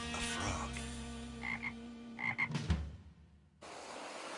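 The last notes of cartoon theme music, with two short double croak-like calls in it, end on a sharp hit. After a brief gap a soft, steady wash of surf noise begins.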